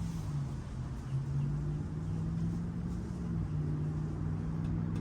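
Steady low hum of a running motor or machine, with no distinct events.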